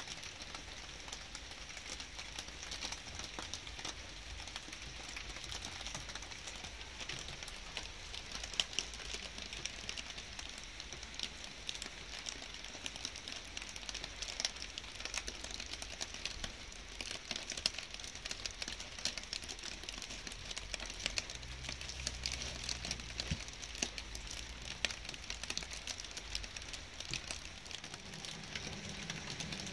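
Light rain falling: a steady hiss dotted with many small, close drop ticks. A faint low rumble runs underneath and swells briefly about two-thirds of the way through.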